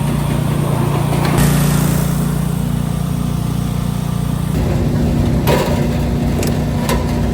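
Small gasoline engine of a trailer-mounted commercial gutter-forming machine running steadily, likely just refuelled after failing to start. About four and a half seconds in, its note shifts, and a few sharp clicks follow.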